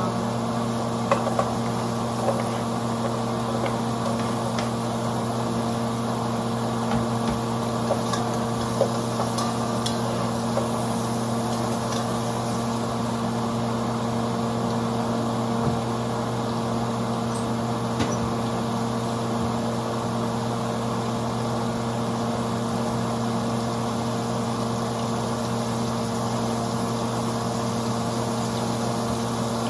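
A steady machine hum runs throughout, with a few light clicks and taps scattered through it.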